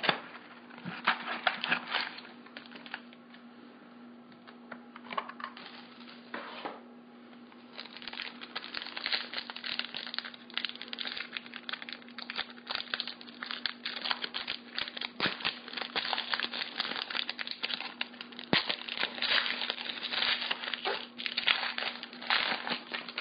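Trading card packaging being opened by hand: wrapper crinkling and tearing, sparse at first, then dense crackling from about eight seconds in. A steady low hum runs underneath.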